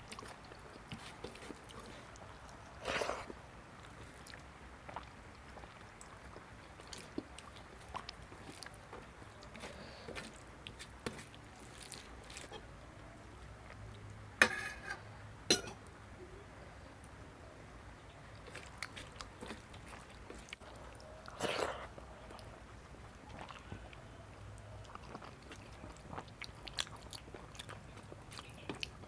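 A person chewing and eating a vegetarian thali with rice at close range: soft mouth sounds and small clicks, with four louder sharp bites spread through.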